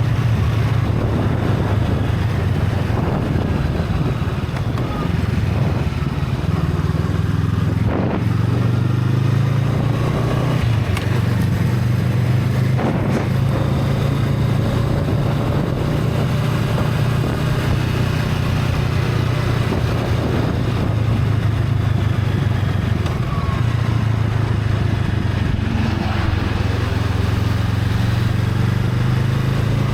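Honda Rebel 500's parallel-twin engine with stock exhaust, running under way as the motorcycle is ridden, its note rising and falling a few times with throttle and gear changes, over wind noise on the microphone.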